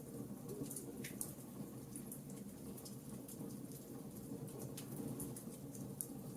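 Wood fire crackling in a fireplace: scattered sharp snaps and pops over a low, steady rumble, with a louder snap about a second in.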